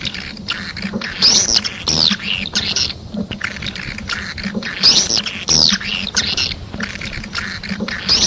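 Swiftlet calling track: dense twittering chirps of edible-nest swiftlets, each an arched up-and-down sweep. The chirps come in a pattern that repeats every few seconds over a low pulsing hum.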